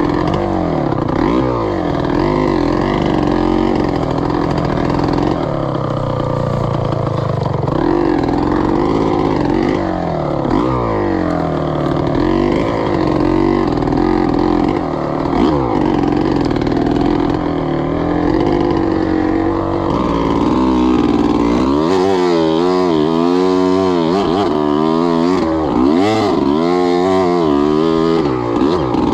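2003 Gas Gas EC300 two-stroke enduro motorcycle engine revving up and down under riding, its pitch rising and falling every second or two. Near the end come a run of quick, repeated throttle blips.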